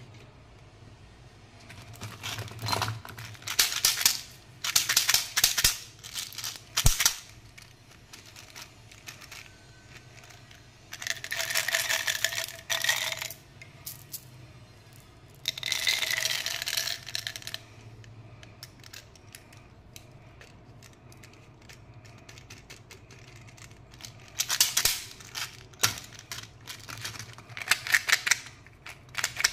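Crinkling and clicking of candy packaging being handled and opened, in several loud bursts of a second or two separated by quiet pauses.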